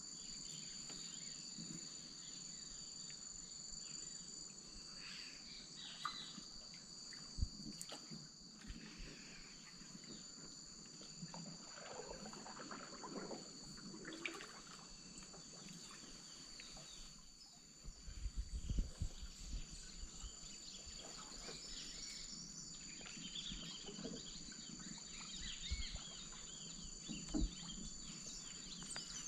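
Rainforest wetland chorus: insects hold two steady high-pitched trills throughout, while birds call now and then, with more calls in the second half. A brief cluster of low knocks comes about two-thirds of the way through.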